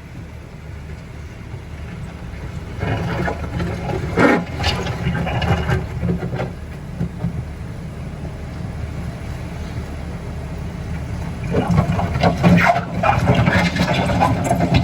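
Vehicle engine running as it climbs a steep, rough slope, growing louder, with rough noisy surges about three seconds in and again near the end.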